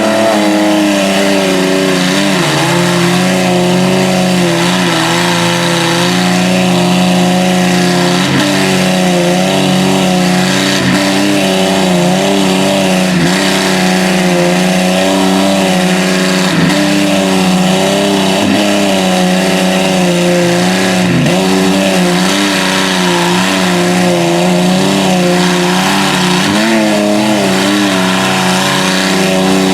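2WD pickup truck engines held at high revs under heavy load, straining as the trucks pull against each other. The engine note stays high and steady, with small wavers in pitch.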